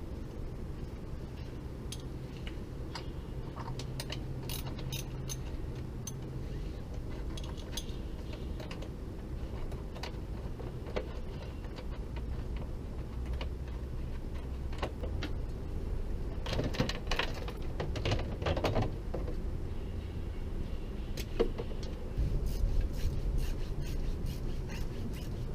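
Honda Cub's small single-cylinder engine running with a steady low hum and scattered metallic clicks, with a cluster of clinks about two-thirds of the way through. The owner attributes the Cub's abnormal noise to a worn cam chain.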